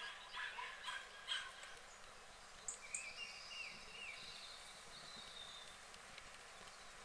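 Faint outdoor bird calls: a quick run of harsh, rasping calls in the first second and a half, then a small bird's high whistled song phrases around the middle.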